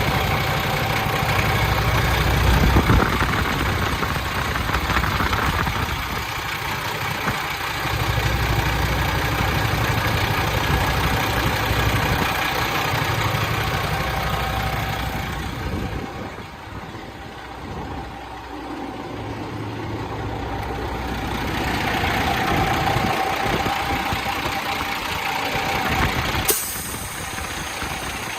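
2008 Freightliner ST120 truck tractor's diesel engine idling steadily. The level rises and falls, softening for a few seconds past the middle, with a sharp click near the end.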